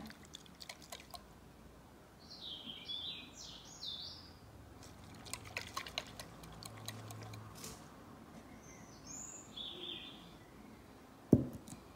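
Faint bird chirping in two short bursts, over light clicks and ticks from a lidded glass jam jar being swirled on a table. A single sharp knock comes near the end, the loudest sound.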